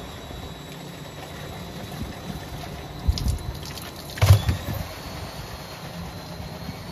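Washing machine running with a steady hum and water sounds, with two thumps about three and four seconds in, the second one louder.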